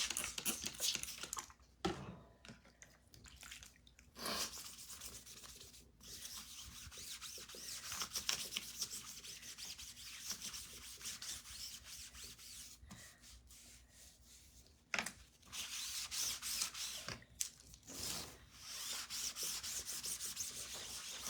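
Rubbing and wiping on a Chalk Couture silkscreen transfer to clean the chalk paste off it: an uneven scrubbing hiss that comes and goes in strokes, with short pauses.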